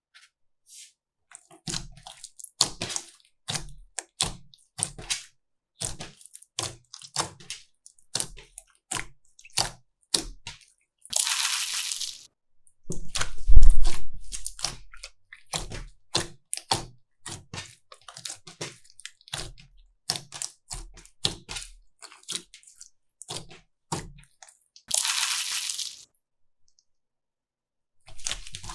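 Slime being squished and pressed by hand, giving a quick run of wet crackling clicks and pops. Two short hissing noises come about a third of the way in and again near the end, and the loudest squelch falls near the middle.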